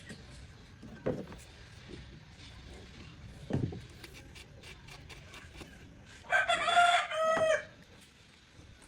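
A rooster crowing once, a single drawn-out crow with a falling end, about six seconds in. Before it come two dull knocks and a run of faint clicks.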